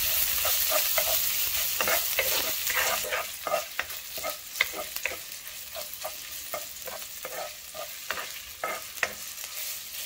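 Chopped garlic and ginger sizzling in hot oil in a frying pan while a utensil stirs them, with frequent short scrapes and taps against the pan. The sizzle is louder for the first few seconds, then eases to a lower level.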